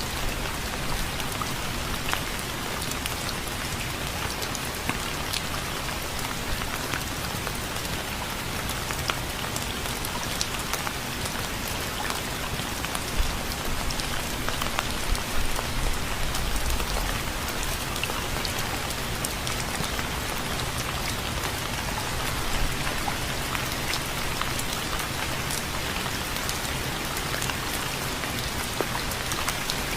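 Steady rain falling and pattering on a surface, with many separate drops ticking. A brief low rumble comes about halfway through.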